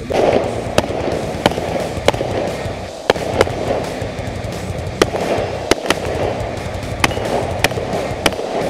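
AR-15-style semi-automatic rifle fired in a steady string: about ten shots, roughly one every two-thirds of a second, with two short pauses. Background music plays underneath.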